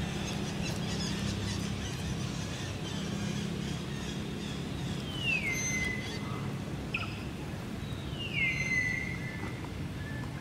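A bird's whistled call, given twice, each sliding down in pitch and then holding a steady note, over a steady low rumble.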